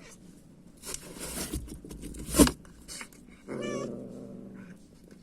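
Rustling and a sharp knock, then an animal's low call of about a second, a little past halfway.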